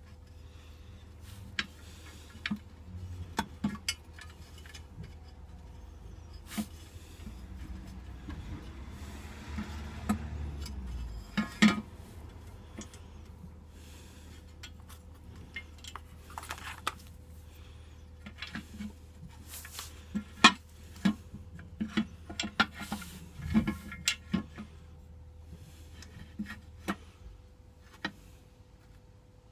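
Scattered metallic clinks, taps and knocks of hand tools and motorcycle parts being handled, with a few louder knocks and a busier run of clinks past the middle, over a steady low hum.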